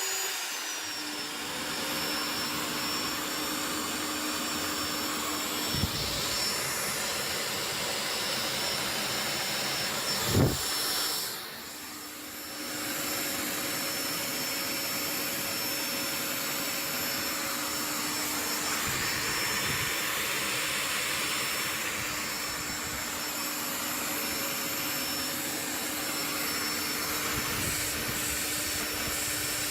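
A 1600 W vacuum cleaner runs steadily with a 780 W electric drill running alongside, both powered through a 12 V to 220 V pure-sine inverter under a combined load test. A sharp knock comes about ten seconds in, and the level dips briefly just after it.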